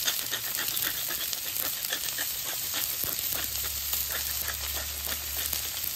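Zucchini and onion pieces sizzling in butter and oil on a hot Blackstone flat-top griddle, a steady hiss with constant small crackles.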